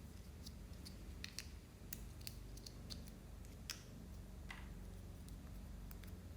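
Clear slime being mixed by hand, giving faint, irregular little clicks and pops, with one short soft scrape about four and a half seconds in.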